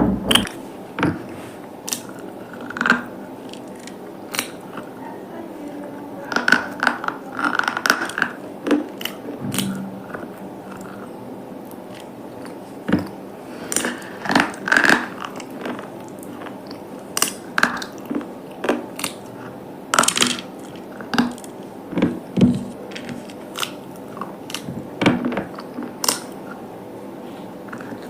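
Close-up biting and chewing of hard, brittle items, a run of irregular crisp crunches, some in quick clusters.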